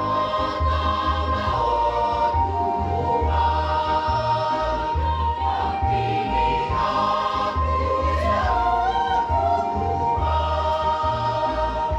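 A church choir singing a hymn in several parts, holding long notes that change every second or two.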